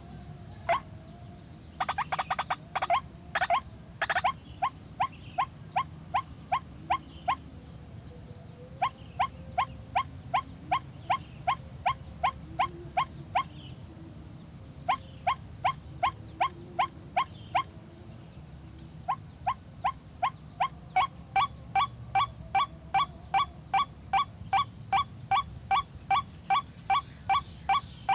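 White-breasted waterhen (ruak-ruak) calling: a monotonous series of short rising notes about two a second, in runs broken by short pauses, with a quicker jumble of notes about two to four seconds in.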